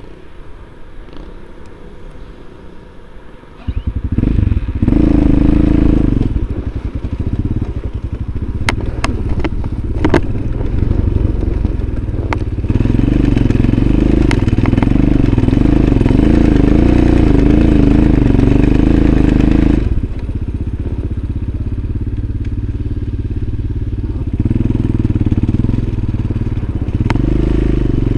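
Off-road motorcycle engine running under load, its revs rising and falling as it rides over snow. It comes in loud about four seconds in, with a few sharp knocks and clatters partway through. It eases off a little about twenty seconds in and revs up again near the end.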